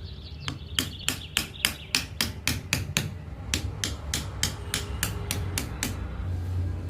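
Small hammer tapping on wood in quick, even light blows, about five a second, with a short break about three seconds in. The tapping stops about a second before the end.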